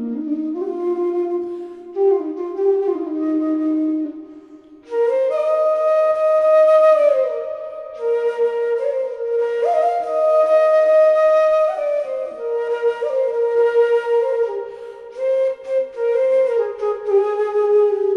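Background music: a solo flute playing a slow melody of long held notes that slide from one pitch to the next, with a short breath-like pause about four seconds in.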